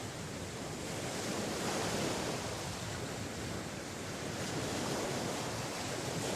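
Sea waves breaking and washing on the shore: a steady rush of surf that swells and eases slightly.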